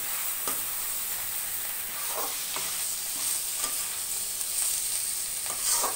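Cabbage manchurian balls sizzling in sauce in a metal kadai, stirred with a spatula. There is a steady hiss, and a few short scrapes of the spatula against the pan.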